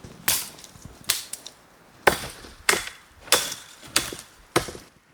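A series of about seven sharp, cracking impacts, spaced a little under a second apart, with quieter gaps between them.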